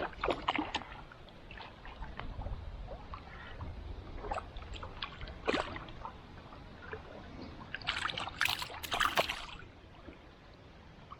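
Water splashing and sloshing at the river's edge, with scattered small knocks and a louder spell of splashing about eight seconds in.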